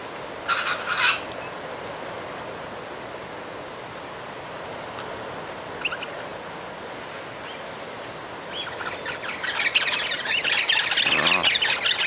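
Wild birds calling at a feeding spot. A short burst of chirps comes about half a second in and a single call near six seconds. From about eight and a half seconds, loud, dense chattering of several birds takes over, over a steady background hiss.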